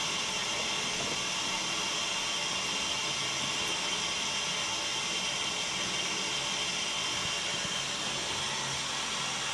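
Steady hiss of water being fed into a steam boiler as the level rises back up the gauge glass.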